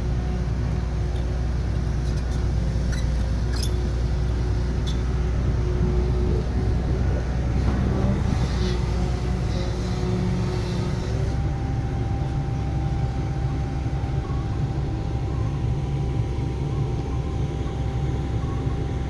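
Heavy diesel engine of construction machinery running steadily with a deep rumble, a few sharp clicks about three to five seconds in, and a hiss from about eight to eleven seconds.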